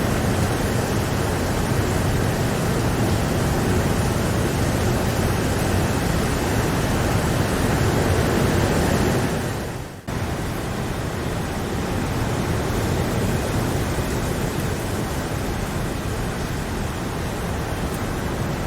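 Steady rain noise. About halfway through it fades quickly into a brief dip, then cuts straight back in a little quieter.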